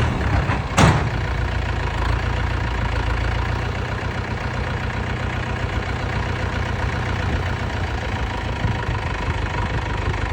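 Diesel engine of heavy earthmoving or farm machinery idling steadily, with a short sharp burst of noise just under a second in.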